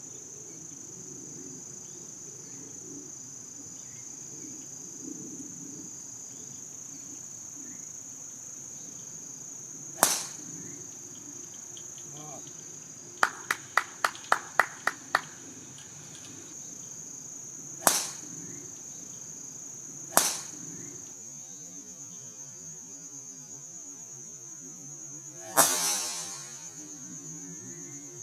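Golf driver striking a ball with a sharp crack that rings out briefly, the loudest sound, near the end, over a steady high insect drone. Three other single sharp cracks and a quick run of about eight clicks come earlier.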